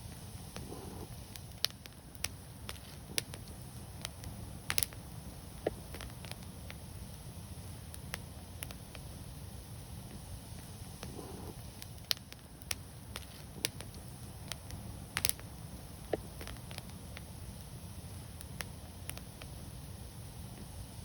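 Wood fire burning, with sharp crackles and pops at irregular intervals over a steady low rumble. The loudest pops come about five seconds in and again around fifteen seconds.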